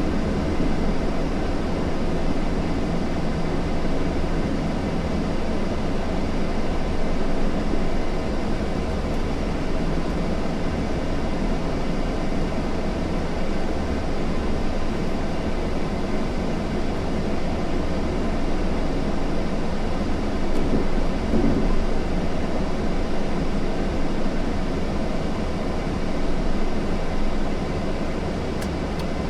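Steady low rumbling noise of a moving vehicle, with no clear changes.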